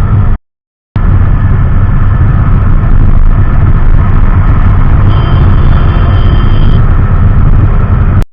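Benelli TRK 502's parallel-twin engine running steadily under way, with heavy wind noise over the rider's microphone. The sound drops out completely for about half a second near the start.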